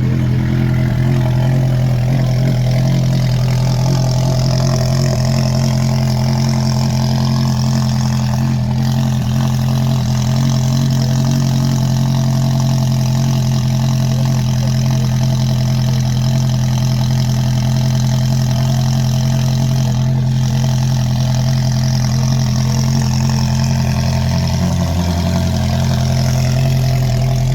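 Car engine idling steadily, holding one unchanging pitch with no revving.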